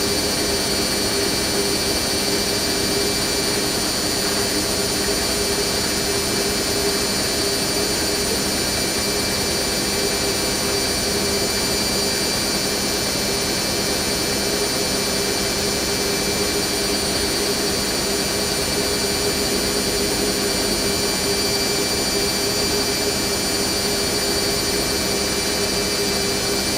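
Hoover NeXtra HNL3146 front-loading washing machine on its 800 rpm final spin, its drum spinning at a steady speed with a constant whine: a smooth, well-balanced spin.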